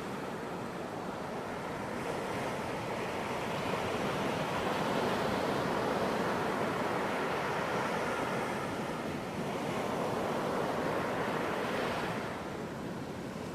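Ocean waves breaking and washing up on a beach: a steady rush of surf that slowly swells and then eases off near the end.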